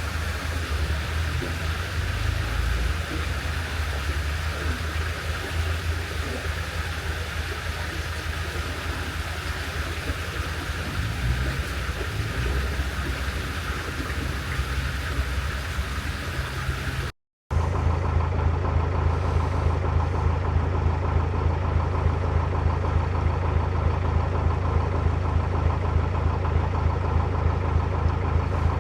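Narrowboat diesel engine running steadily at low revs. After a cut about 17 seconds in it is louder and closer, with a fast, even knocking beat.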